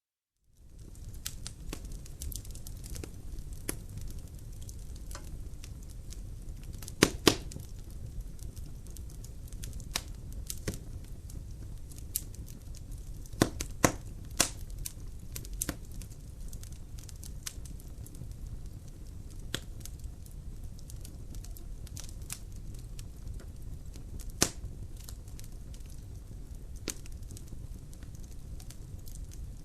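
Logs burning in a fireplace: a steady low rumble of the fire with irregular sharp crackles and pops, a few of them much louder than the rest. The sound cuts in about half a second in, after a brief silent gap.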